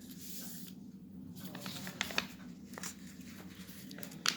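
Sheet of paper being folded and creased by hand into a paper aeroplane: soft rustles with a few short, sharp crinkles, over a steady low hum.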